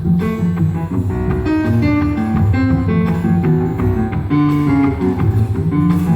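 Symphony orchestra playing an instrumental passage: low, plucked-sounding string notes in a steady, driving rhythm, without singing.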